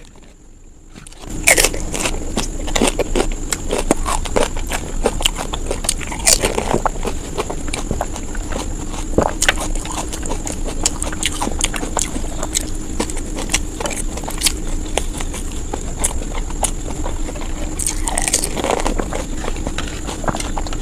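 Close-miked eating sounds: a person biting, crunching and chewing food in quick succession, starting about a second in, with many small crackles. A steady faint hum runs underneath.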